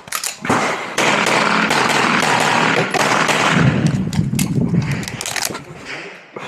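CZ Shadow 2 9mm pistol fired in rapid strings of shots through an IPSC course of fire, the shots coming close together with a dense wash between them.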